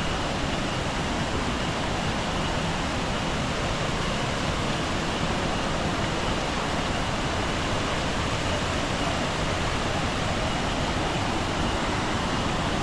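Steady rushing roar of the Iguazú waterfalls, an even noise without breaks, with a faint steady high tone above it.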